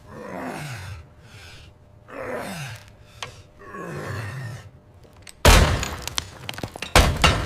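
Three falling whooshes, then two loud crashes about a second and a half apart, with clattering and rattling around them.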